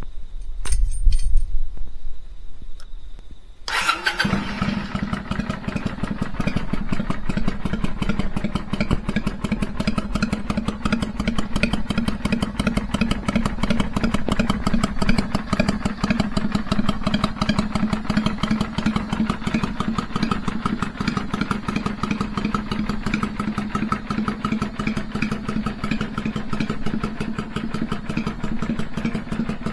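Kawasaki Vulcan 400 V-twin motorcycle engine, after a few clicks, catching on the starter about four seconds in and then idling steadily. The idle has the uneven loping beat that riders call 'sanbyoshi' (three-beat).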